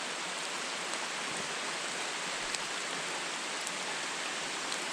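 Heavy rain falling steadily: an even hiss, with a few faint drop ticks.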